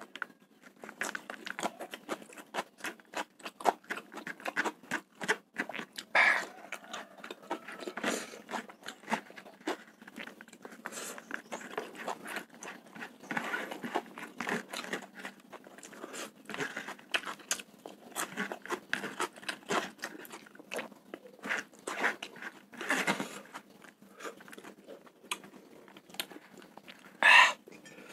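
Close-miked chewing of spicy fried rice eaten by hand: many small irregular clicks and crunches, with two louder breaths near the end.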